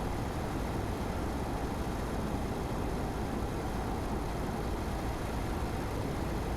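Car driving at a steady speed: an even rumble of tyres on the road with the engine underneath, unchanging throughout.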